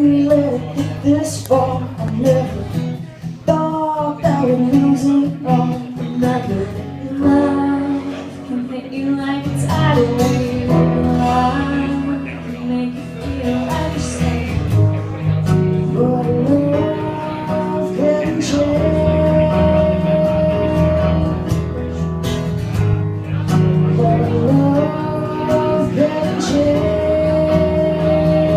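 A live acoustic song: strummed acoustic guitar accompanying a singing voice that holds long notes.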